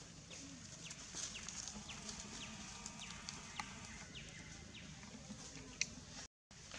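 Birds chirping: a series of short, falling chirps, one or two a second, with a few light clicks and rustles of dry leaves. The sound cuts out for a moment near the end.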